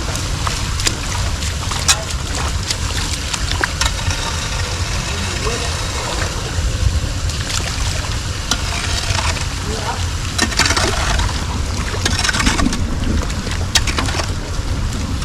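Steady rush of floodwater with a low wind rumble on the microphone and scattered small knocks; faint voices come in about two-thirds of the way through.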